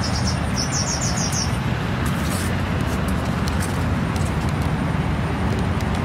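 A steady low rumble of outdoor noise, with a small bird chirping a quick run of about six high notes about a second in and a few faint ticks later.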